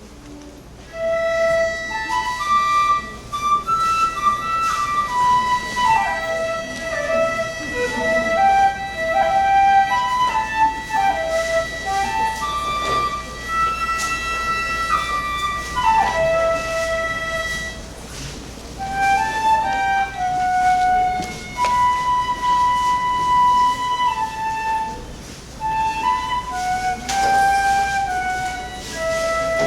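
Instrumental music: a flute-like wind instrument plays a slow melody of held and stepping notes, starting about a second in.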